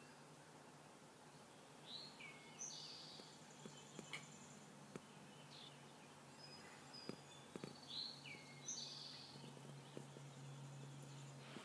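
Faint birdsong: a songbird sings the same short, high, gliding phrase twice, several seconds apart, over a low steady hum.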